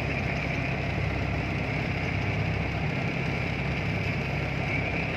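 A fishing boat's engine running steadily, a continuous low hum.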